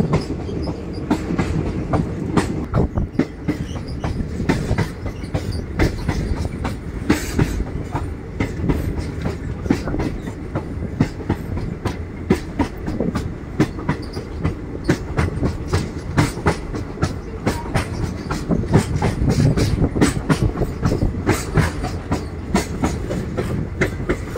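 A passenger train running, heard from aboard: the carriages' steady low rumble with many sharp, irregular clacks of the wheels over the rail joints.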